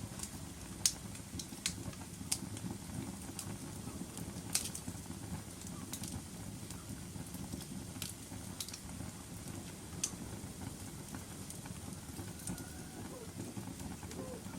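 Wood fire burning in a fireplace: a steady low rumble of flames with sharp, irregular crackles and pops, the loudest about a second in and again about four and a half seconds in.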